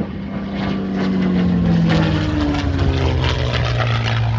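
Propeller airplane flying past, its engine note dropping steadily in pitch as it goes by.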